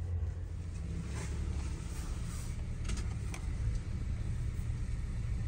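Steady low rumble of a car engine running, heard from inside the cabin, with two faint clicks about three seconds in.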